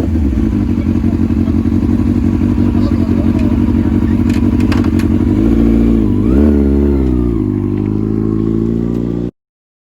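Motorcycle engine idling steadily, then revved once about six seconds in, the pitch rising and falling back to idle. The sound cuts off abruptly near the end.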